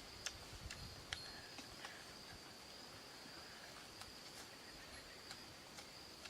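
Faint, steady high-pitched insect drone, like a cricket or cicada chorus, with a few sharp clicks scattered through it, the loudest about a third of a second and about a second in.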